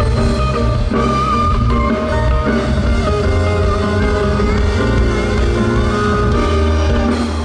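Live band music, loud and steady, led by guitar over a drum kit and bass, with no singing.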